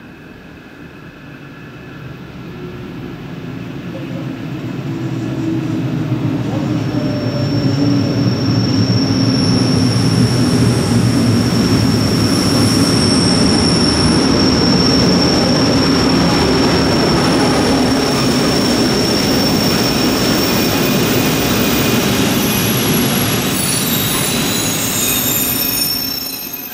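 Rhaetian Railway Ge 4/4 II electric locomotive hauling a train of red coaches into the platform. The rumble grows louder as it approaches, and a steady high-pitched wheel squeal runs through the middle. The level drops near the end as the coaches roll past.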